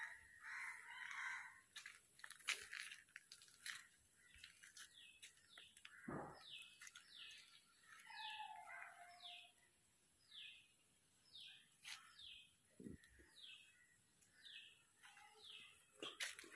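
A bird calling faintly: a long run of short notes that fall in pitch, about two a second, starting about five seconds in. A few light clicks are scattered around it.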